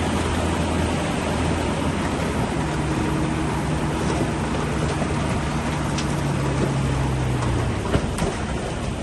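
Diesel engine of heavy earthmoving equipment working under load, its note rising about two and a half seconds in and dropping away near the end, with a few sharp metallic knocks.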